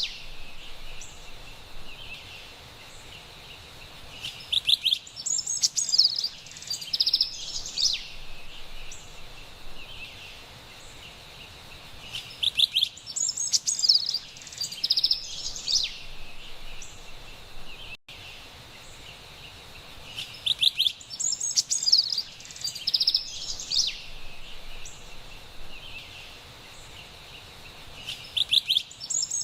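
Carolina wren singing loud, rapid, ringing phrases in groups that recur about every eight seconds, over a faint steady background of distant forest birdsong.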